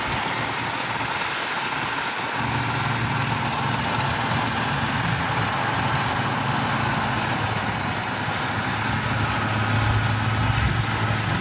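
Motor grader's diesel engine running steadily as it works the soil, a low engine drone over grinding noise that swells louder near the end.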